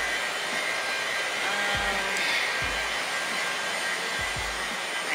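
Steady rushing background noise of a shop interior, like air handling, with faint music under it and a few low thuds.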